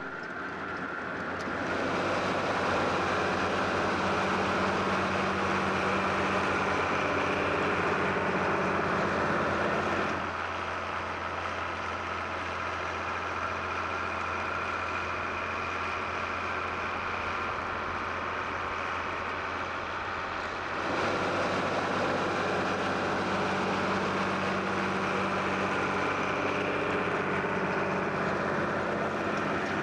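Tractor and potato harvester working a field, their engines running steadily under load. The sound drops somewhat about ten seconds in and comes back up about ten seconds later.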